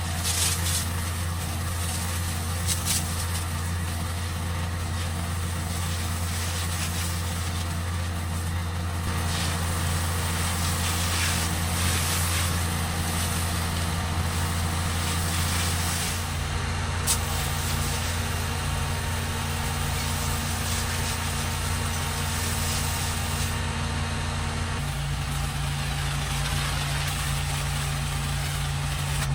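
Gas-engine pressure washer running steadily, with the hiss of the water spray over it. The engine note shifts about halfway through and again near the end.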